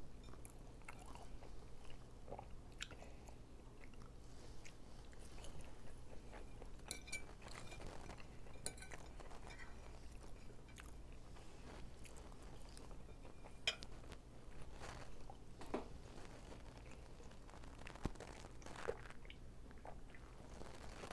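Faint, close-up chewing and crunching of fried chicken, with scattered sharp clicks of a fork against the plate.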